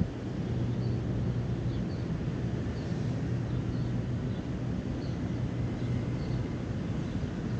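Small birds chirping, short high chirps about once or twice a second, over a steady low hum and rumble of outdoor background noise.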